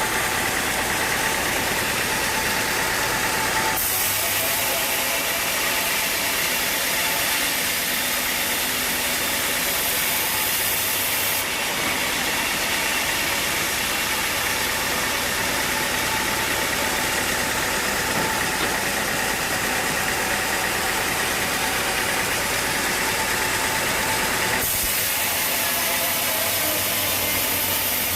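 Sawmill machinery running steadily, a continuous engine-like noise that shifts abruptly in tone a few times.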